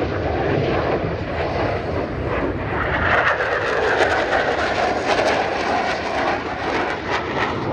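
F-16 fighter jets flying past, a loud steady rush of jet engine noise that swells about three seconds in.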